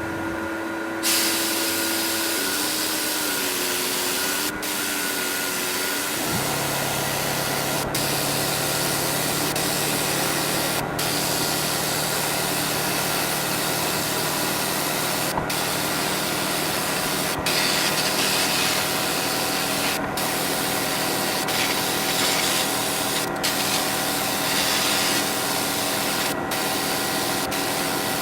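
Compressed-air tool hissing steadily, with brief pauses every two to three seconds as the trigger is let off. About six seconds in, a steady machine hum starts underneath.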